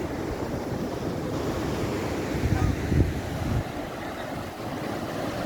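Surf breaking on a beach, with wind buffeting the microphone; a louder low rumble swells up about two and a half seconds in and drops away about a second later.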